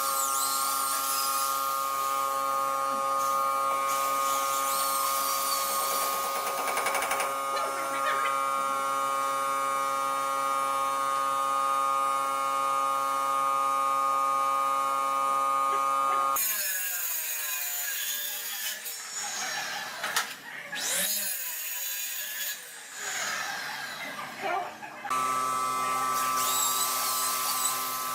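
A handheld electric power tool running with a steady whine. It cuts out abruptly about 16 seconds in, giving way to scraping and whirring that rises and falls in pitch, and the steady whine returns about 25 seconds in.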